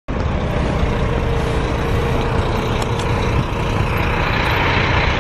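A coach bus's engine and road noise as it drives past close by: a steady low rumble of traffic that cuts in suddenly at the start.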